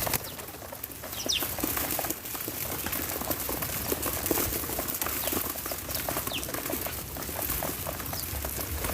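Birds at a backyard feeder: wings flapping and a few short, high, falling chirps over a steady run of small clicks and taps.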